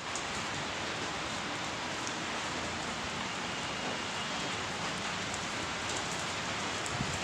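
Steady monsoon rain falling, an even hiss with occasional faint drop ticks.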